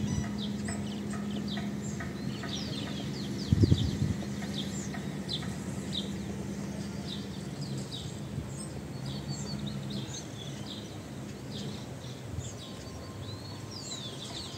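Birds chirping and calling, many short quick calls in a row. Under them runs a low steady hum that fades out about ten seconds in, with one dull thump about four seconds in.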